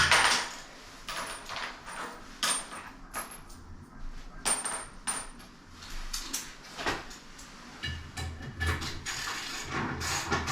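A string of irregular knocks and clinks from hard objects being handled, a dozen or so sharp hits spread unevenly with short quiet gaps between them.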